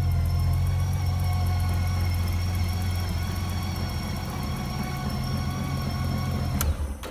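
2006 Honda Gold Wing GL1800's flat-six engine idling steadily, then switched off at the ignition key near the end: a sharp click, and the running stops.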